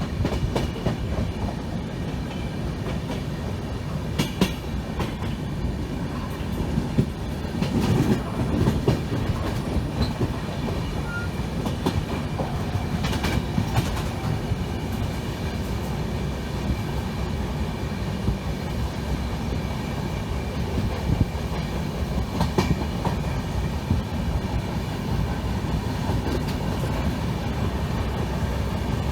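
Train running along the track: a steady rumble with wheels clattering over the rails, and a few sharper clanks.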